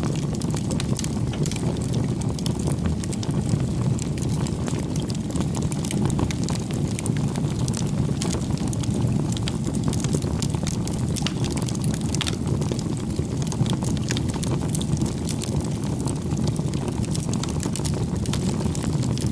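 Wood fire burning: a steady low rumble of flames with frequent, irregular pops and crackles of burning wood.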